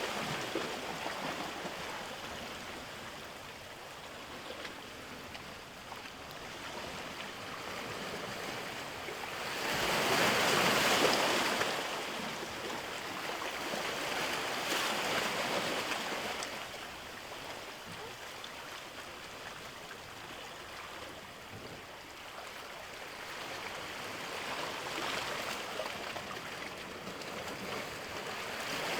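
Sea waves washing ashore: a steady rush of surf that swells with each wave, loudest about ten seconds in, with further swells around fifteen and twenty-five seconds.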